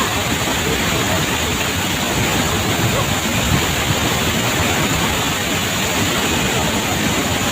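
Tegenungan Waterfall rushing steadily: an unbroken wash of falling water.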